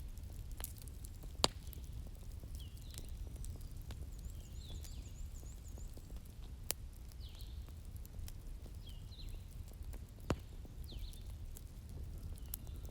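Bonfire burning with a low steady rumble and light crackle, broken by three sharp pops. Short high chirps repeat about once a second throughout, with a brief warbling trill in the middle.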